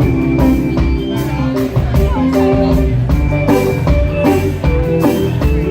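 Live band playing an instrumental passage: held chords and melodic lines over a steady drum beat with regular hits.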